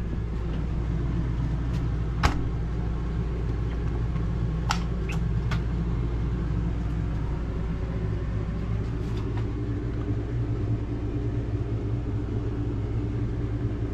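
Refrigerator door being shut and tested, giving a few sharp clicks about two seconds in and again around five seconds in, over a steady low hum.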